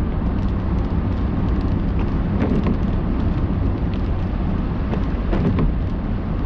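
Steady road and engine rumble inside a moving car, with a few faint short taps.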